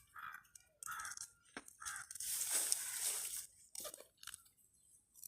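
Birds giving short harsh calls three times in the first two seconds, then a louder rustling burst lasting about a second, followed by a few light clicks.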